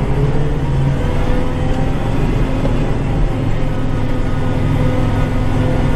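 Kubota tractor's diesel engine running steadily, with a continuous low hum.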